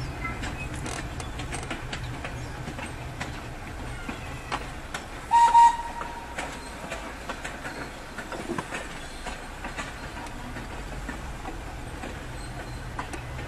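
Thomas the Tank Engine excursion train running, its wheels clicking over the rails, heard from inside a car with a low rumble underneath. One short, high whistle blast about five seconds in.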